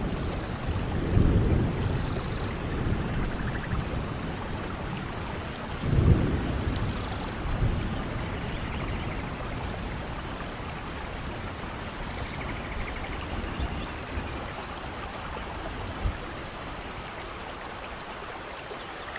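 Steady rain with rolls of thunder: a low rumble about a second in and a sharper one about six seconds in, then rain alone with softer distant rumbling.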